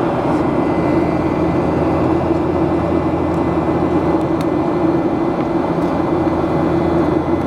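Boeing 737 jet engines at high thrust during takeoff, heard inside the passenger cabin as a loud, steady rushing noise with a faint high whine.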